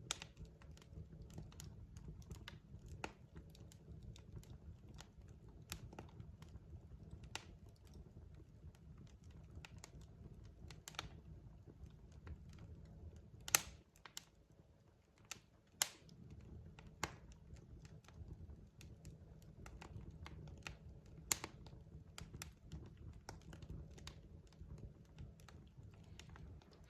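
Wood logs burning in a fireplace: irregular sharp crackles and pops over a low, steady rumble of the fire. The loudest pops fall around the middle, and the rumble briefly fades just after them.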